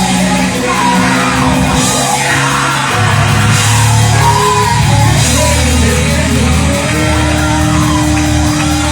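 Live church worship music: instruments holding sustained chords that change about three seconds in, with voices singing and shouting over them.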